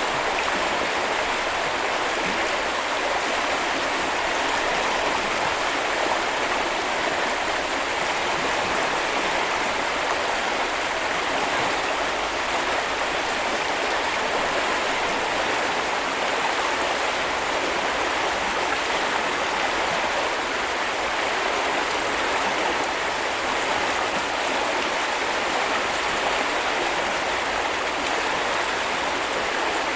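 Small river or brook flowing over stones, a steady rushing and babbling with no breaks.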